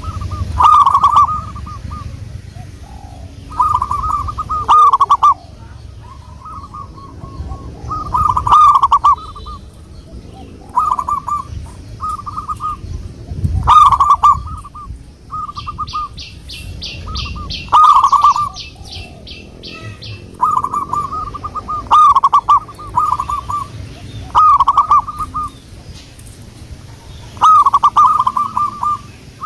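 Zebra dove (perkutut) cooing: short, rolling coo phrases repeated every second or two. A fast, high trill from another small bird runs for a few seconds in the middle.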